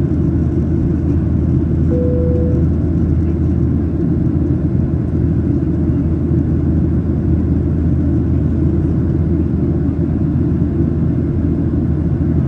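Steady low cabin rumble of a Boeing 737-800 in the climb, from its CFM56 jet engines and the air rushing past the fuselage, heard from a passenger seat. A brief single-pitch tone sounds once about two seconds in.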